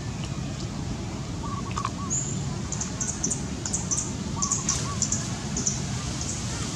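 Outdoor ambience with small birds chirping: a run of short, high chirps from about two seconds in, and a fainter wavering call that recurs every second or two, over a steady low background rumble.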